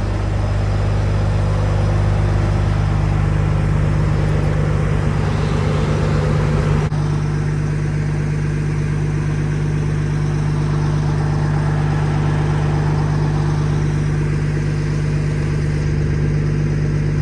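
A motor vehicle running steadily, its engine drone holding one pitch, with an abrupt change in the sound about seven seconds in.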